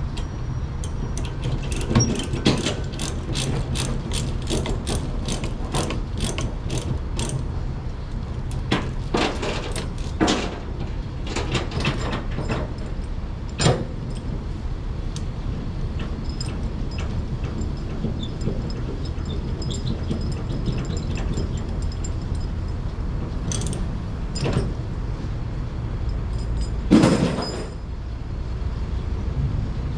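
A steady low engine rumble with many irregular metallic clicks and clanks over it, the loudest clank near the end.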